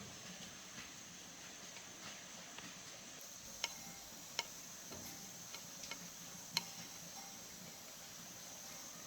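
Scattered sharp light clicks, three louder ones in the middle and several fainter ones between, over a faint steady high-pitched whine.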